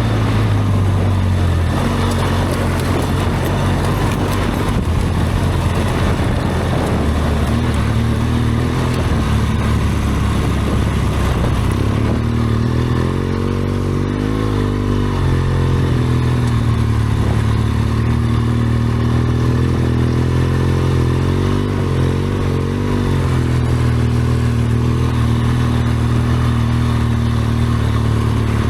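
BMW R1200GS Adventure's flat-twin engine running under way off-road, its pitch rising and falling several times between about twelve and sixteen seconds in and again near twenty to twenty-three seconds as the throttle is worked, over a steady rush of wind and tyre noise.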